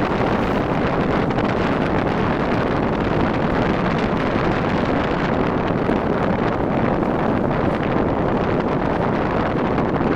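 Wind rushing over the microphone of a motorcycle moving at speed, a steady noise.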